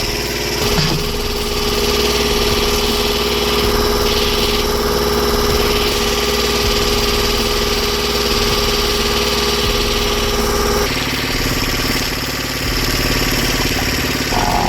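An engine running steadily under a constant whine; about eleven seconds in the whine stops and the engine sound changes.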